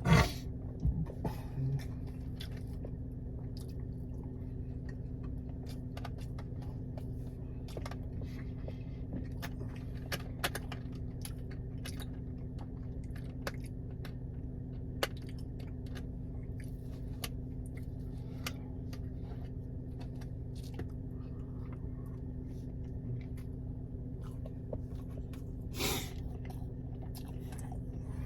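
Close-miked eating: a person chewing food, with scattered small clicks and mouth sounds over a steady low electrical hum. There are louder brief noises at the very start and near the end.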